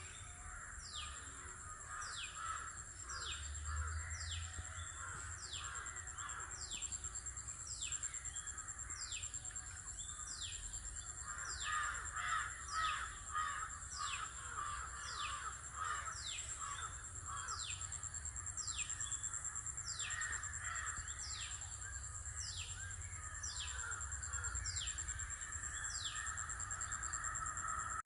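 Morning countryside chorus: crows cawing repeatedly, with a short high sweeping call repeated about once a second and a steady high insect whine under it. A low rumble sits underneath.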